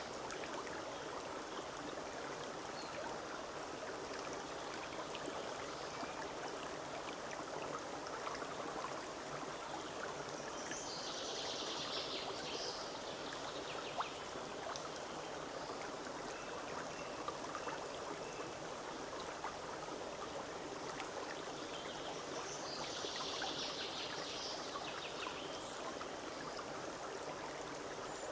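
Forest stream running steadily over stones. Twice a songbird sings a short high trill over the water, about a third of the way in and again near the end.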